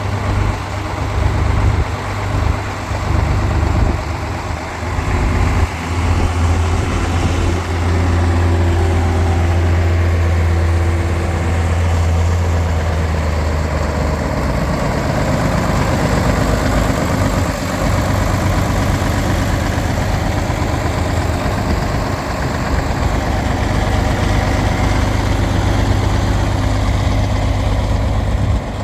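1963 John Deere 5010's six-cylinder diesel engine running steadily, a deep even sound.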